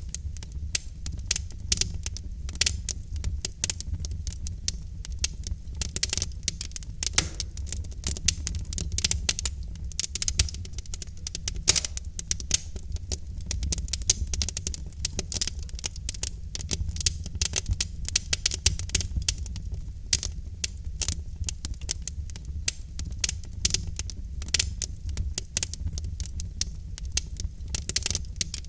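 Wood fire in a fireplace crackling: dense, irregular sharp pops and snaps from the burning logs over a steady low rumble of the flames.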